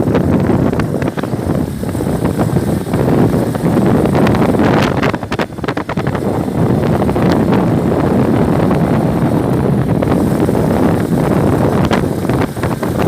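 Strong wind buffeting the microphone: a loud, continuous rumbling rush with irregular crackling gusts.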